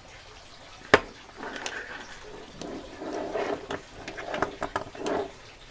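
Small clicks and clatter of padlocks and lock-picking tools being handled, with one sharp click about a second in followed by a run of irregular clicks and rattles.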